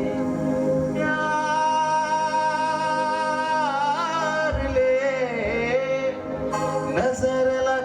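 Live band music: a long held melody note with vibrato and bends, sung or played on a lead instrument, over a steady low drone and keyboard backing.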